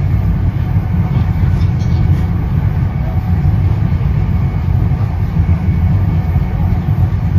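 Running noise inside an NJ Transit Comet commuter coach at speed: a steady low rumble of the car rolling on the rails.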